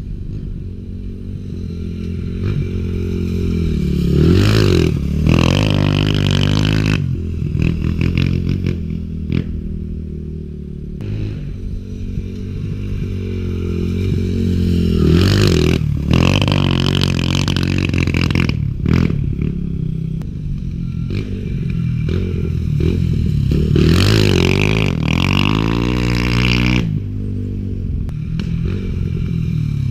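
Small pit bike engine running and revving repeatedly, its pitch climbing and falling in three strong surges with lower running in between.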